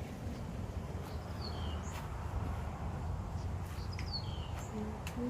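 Wind rumbling on the microphone, with a bird's short falling chirps twice, about a second and a half in and again around four seconds.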